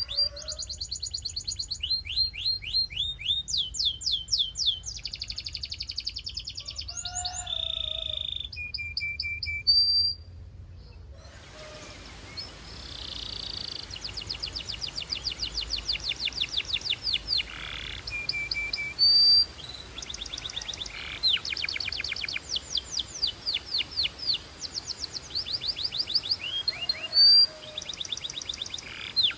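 Belgian canary singing a long song of fast trills of rapidly repeated notes, switching to a new phrase every second or two, with a short pause about a third of the way in. A steady hiss sits under the song after the pause.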